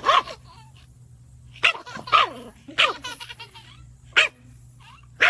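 Pet dog barking: about five short, sharp barks with irregular gaps between them.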